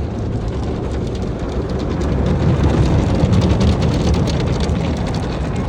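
Tunnel car wash heard from inside the car: water spraying and drumming on the body and windows, with many quick hits like rain.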